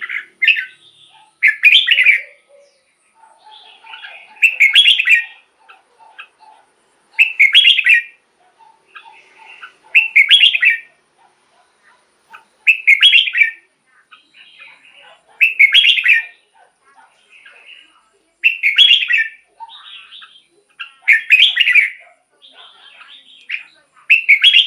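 Red-whiskered bulbul singing. Loud, short warbled phrases are repeated about every two and a half seconds, about nine in all, with softer chattering calls in between.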